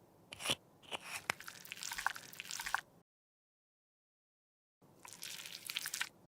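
Close-up ASMR sounds of a cosmetic product being worked by hand: soft squishing and crackling with a few sharp clicks, in two stretches with a gap of silence between them.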